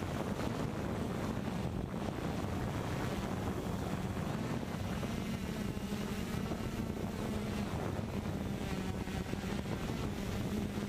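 Walkera multirotor drone's propellers humming steadily, the pitch wavering a little as the motors adjust, with wind buffeting the microphone.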